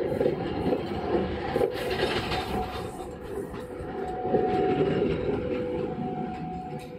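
Passenger train coaches rolling past at close range: steel wheels running on the rails, with an intermittent squeal from the wheels. The sound fades as the last coach goes by near the end.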